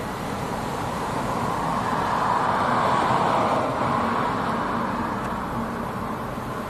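Jet airliner engine noise passing by, swelling to a peak about three seconds in and then fading.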